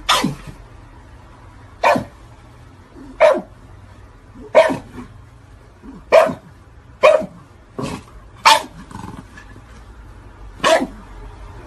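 A dog barking: about nine single, sharp barks spaced roughly one to two seconds apart.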